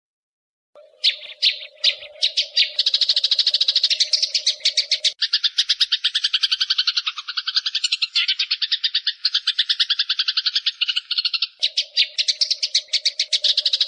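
Eurasian tree sparrows chattering in fast, rapid-fire trills, the agitated calls of sparrows fighting, starting about a second in and running on without a break. A steady low tone sits under the chatter for the first few seconds and again near the end.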